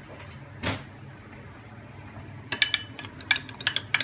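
A spoon stirring arrowroot powder and water into a slurry, clinking quickly and irregularly against a small dish; the clinking starts about two and a half seconds in.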